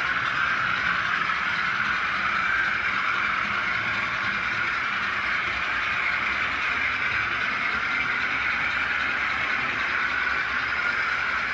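OO gauge model train running on the layout: a steady whirr of its small motor and wheels on the track, unchanging throughout.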